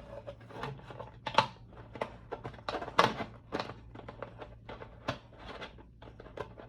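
Hard plastic parts of an ultrasonic humidifier being handled, with the tank's cap being worked: a string of irregular clicks, taps and knocks over a faint low hum.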